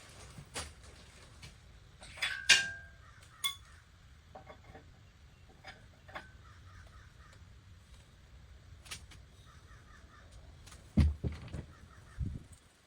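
Metal parts and tools being handled during engine work. One sharp metal clank with a short ring comes about two and a half seconds in, among scattered clicks and knocks, with a few dull thumps near the end.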